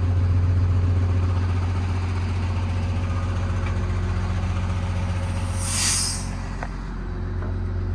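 Paccar PX7 inline-six diesel of a Kenworth T270 idling steadily with a low hum, and a short hiss of air about six seconds in.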